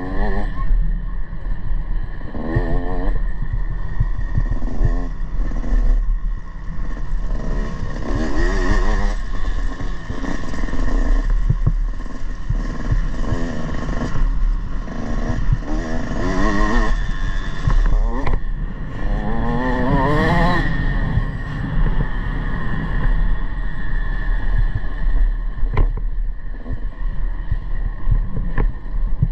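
Motocross bike engine revving up and down again and again, its pitch rising in several sweeps with the strongest about twenty seconds in, over a steady low rumble.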